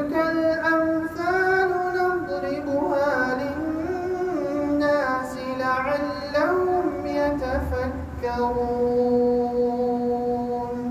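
A single voice vocalising a wordless, ornamented melody in long gliding phrases, ending on a long held note.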